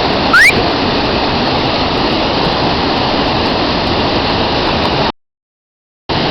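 Waterfall rushing steadily, with a short rising whistle about half a second in. The sound drops out completely for about a second near the end.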